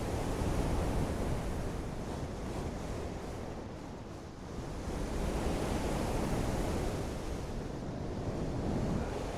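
Steady rain falling, a dense rushing hiss with no separate drops standing out. It eases about four seconds in and swells again a second later.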